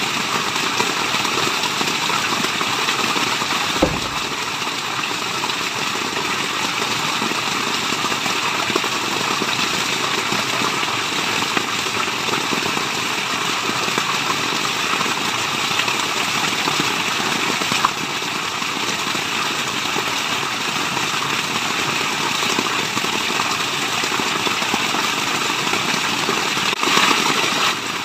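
Steady rushing water of a waterfall, an even white-noise wash without let-up, with a brief low thump about four seconds in.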